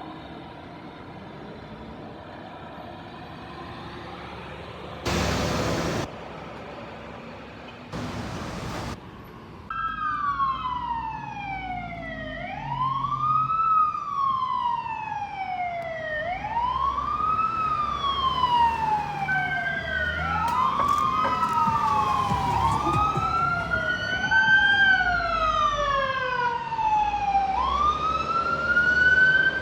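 Fire truck electronic sirens on the wail setting start about ten seconds in, with slow rising and falling sweeps. A second wail overlaps from about twenty seconds in. Before that there is a low rumble and two short bursts of noise, about five and eight seconds in.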